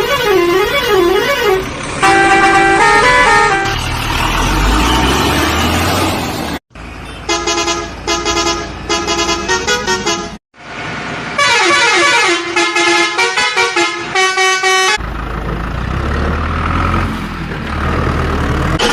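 A run of vehicle horn sound effects with hard cuts between them. A wavering up-and-down horn tone comes first, then musical horns play short stepped-note tunes. A low vehicle rumble runs under some stretches.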